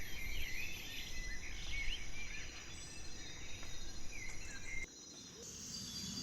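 Outdoor nature ambience: scattered short bird chirps over a steady high insect buzz and a low rumble. It drops away suddenly about five seconds in, then builds back up.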